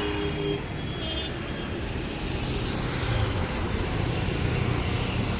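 Steady engine rumble and traffic noise, with a short two-note horn toot right at the start and another brief toot about a second in.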